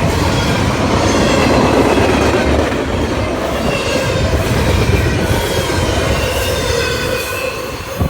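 Cars of a freight intermodal train rolling past close by: a steady loud rumble of steel wheels on rail, with thin high wheel squeals that waver in pitch.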